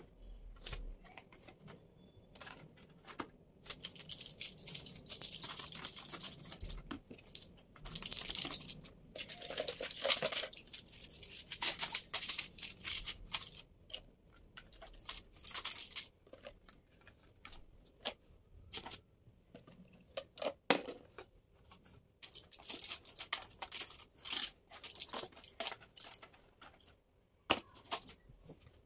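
Rustling and crinkling from handling material, in spells of a second or two, with scattered sharp clicks and knocks between them.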